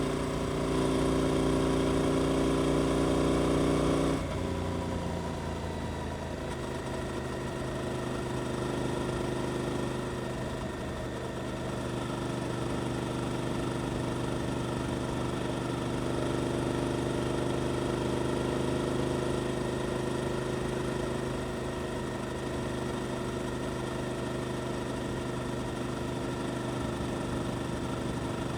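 Suzuki GSX-8S 776 cc parallel-twin with an Arrow aftermarket exhaust holding steady revs. About four seconds in the throttle closes and the engine note falls, settling into a quieter, lower steady note.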